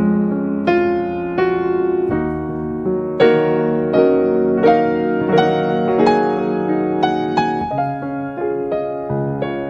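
Piano music: a melody of struck notes and chords at a gentle, even pace, each note ringing and fading before the next.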